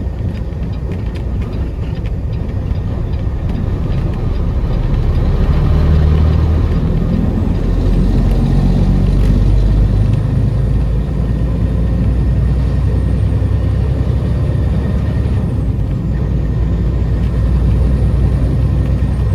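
Semi truck's diesel engine running under load while driving, with steady road rumble; it grows louder and rises in pitch a few seconds in, as if pulling away, then runs steadily.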